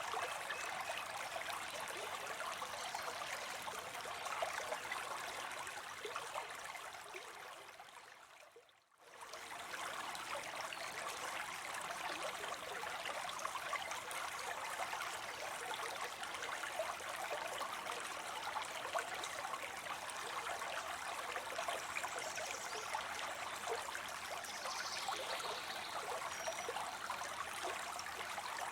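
Water spilling into a pond, a steady splashing flow. About a third of the way through it fades away to near silence and quickly returns at full level.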